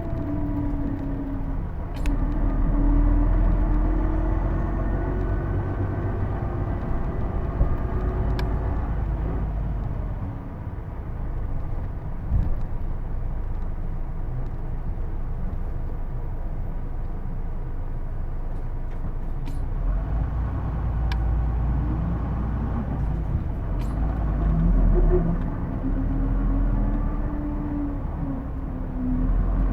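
Hino Blue Ribbon II (PJ-KV234L1) city bus running, its diesel and drivetrain humming under a whine that glides up and down with speed. The whine eases in the middle, and the bus pulls away again with rising tones near the end. The whine is the distinctive transmission noise, sounding almost like an automatic, that the uploader takes for a faulty gearbox sound. A few sharp clicks or rattles are heard.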